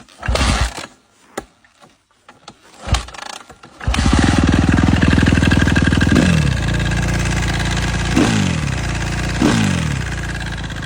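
Suzuki RM-Z250 four-stroke single-cylinder dirt bike engine being started: a few short cranking bursts, then it catches about four seconds in and runs. The throttle is blipped three times, each time the revs dropping back.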